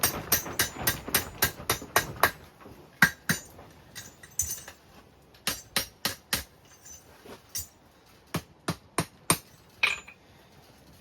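Hand hammer striking hot iron on an anvil to forge-weld a chain link: a quick run of blows, about four a second, for the first two seconds or so, then slower, spaced single strikes, with one ringing hit near the end.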